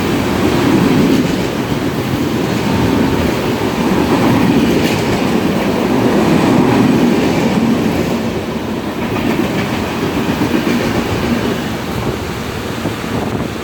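Maithili Express passenger train running on the rails: a loud, steady rumble that eases slightly a little over halfway through.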